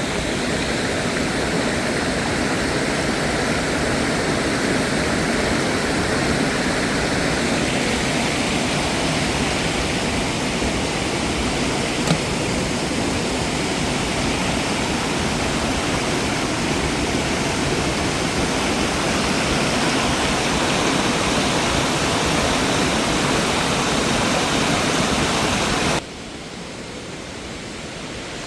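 Steady rush of flowing mountain water, a dense even noise, that drops suddenly to a quieter rush near the end.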